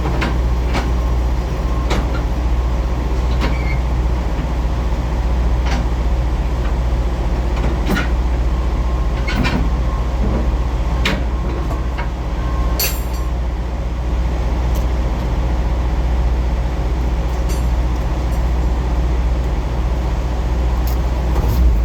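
Semi-truck diesel engine running steadily at low revs while the tractor-trailer is backed in, with scattered sharp clicks and knocks and a brief hiss about halfway through.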